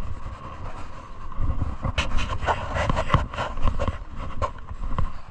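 Electric rack railway train moving slowly along the platform: a low rumble with a steady hum, then a run of metallic clanks and knocks starting about two seconds in.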